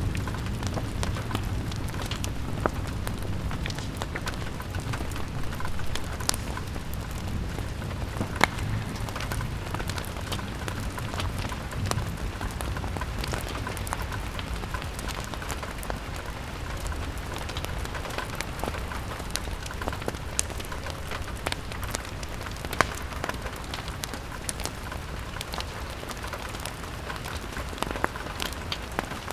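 Steady rain pattering against a window pane over a low rumble of wind, which eases off through the second half. Sharp crackles and pops from a log fire are scattered throughout.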